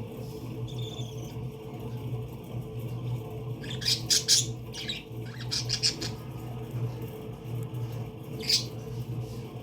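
Parakeets giving short, harsh squawks: a quick cluster about four seconds in, another just before six seconds, and a single call near the end, over a steady low hum.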